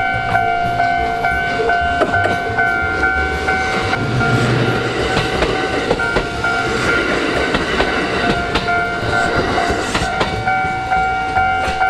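Japanese railway level-crossing alarm ringing steadily while a Kintetsu Shimakaze limited express passes close by. The train's rushing noise swells in the middle, with wheels clicking over the rail joints.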